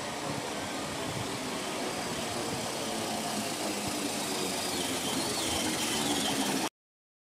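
Class 313 electric multiple unit moving past close by, its running gear and wheels on the rails making a steady noise that grows louder as the carriages pass, with a faint high squeal in the second half. The sound cuts off abruptly near the end.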